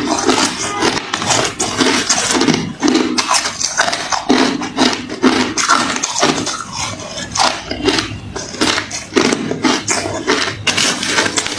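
A person chewing hard refrozen crushed ice: dense, continuous crunching with a quick crackle and a heavier crunch every half second or so.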